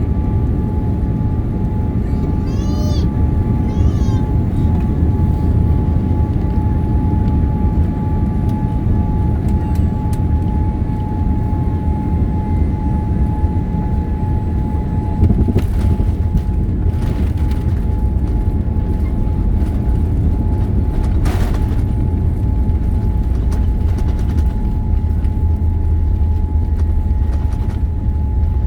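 Steady low rumble of a Boeing 787 Dreamliner heard from inside the cabin, with a steady whine over it and a few faint clicks.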